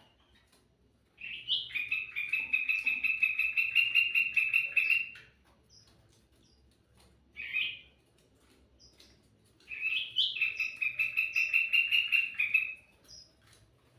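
Kutilang mas songbird singing: two long, fast trilled phrases of about three to four seconds each, with a short single call between them.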